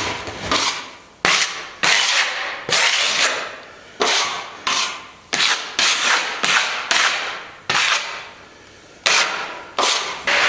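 Repeated scraping strokes of a hand tool on a plaster surface, about a dozen, each starting suddenly and fading within half a second.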